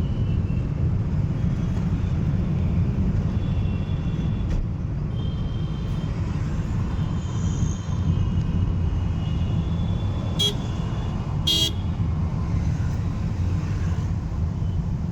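Steady low road and engine rumble of a car driving in city traffic, with other vehicles' horns honking at intervals. Two short, sharp sounds come a little past the middle.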